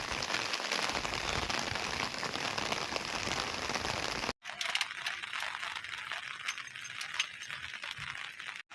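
Heavy rain falling, a dense steady hiss. After a cut a little past halfway, the rain sounds thinner and higher, with scattered sharp drop ticks.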